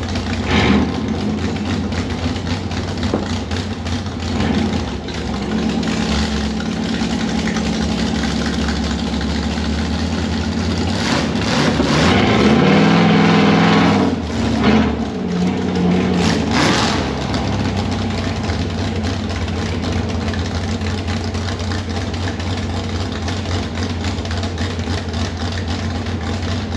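Mud truck's engine running at a steady idle, revved up about twelve seconds in and held for a couple of seconds before dropping back, with a few smaller blips after, then idling again.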